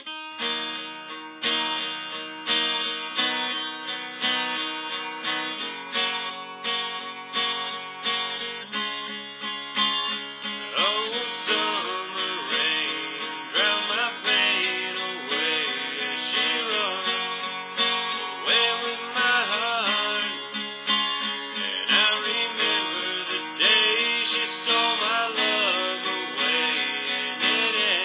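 Acoustic guitar music, strummed and plucked in a steady rhythm; about ten seconds in, a wavering melody line comes in over it.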